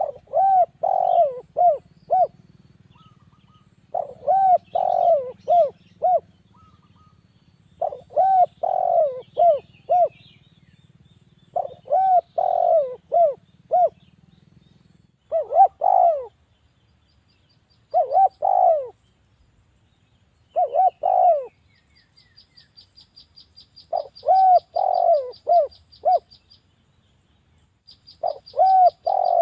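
Spotted dove (derkuku) cooing: a repeated phrase of four or five rolling coos, about nine phrases, one every three to four seconds. A fast, high ticking trill from another small creature comes in during the second half.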